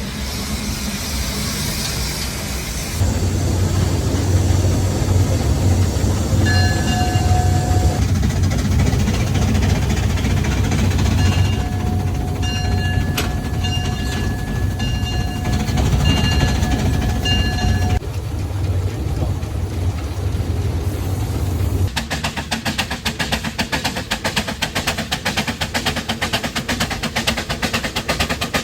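Steam truck running, with its steam whistle blowing: a short blast about 7 seconds in, then a long blast with several short toots over it from about 12 to 18 seconds. Near the end comes a rapid, even chuffing.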